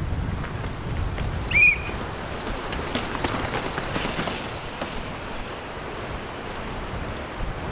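Strong wind buffeting the microphone, a steady rumbling roar, with a short high-pitched chirp about a second and a half in.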